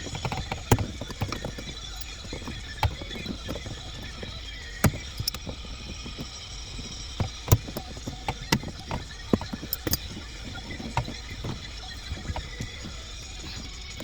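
Scattered, irregular clicks and knocks over a steady low background noise, like handling noise from hands working with tools and parts.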